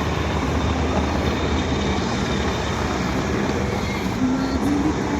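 Embraer C-390's twin IAE V2500 turbofan engines running steadily at ground power during taxiing, a constant loud jet noise.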